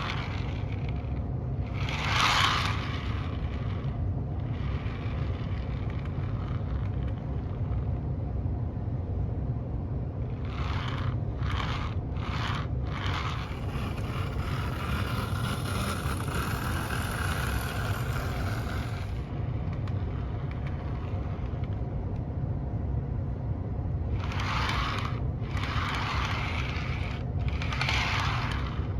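Model train cars rolling along a track: a steady low rumble of wheels and running gear, broken now and then by short bursts of scraping noise.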